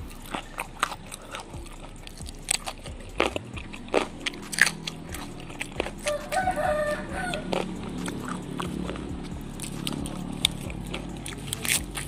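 Close crunching bites and chewing of raw leafy vegetables, mustard greens among them, in a run of sharp crunches. Partway through, a chicken calls for about a second and a half in the background.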